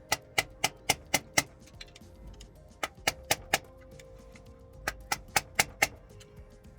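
Light hammer taps driving a new rear main seal into a Cat C0.5 APU engine, working around the seal with the old seal as a driver. The taps come in three quick runs of about six, four and five, some four a second, with background music and a held tone underneath.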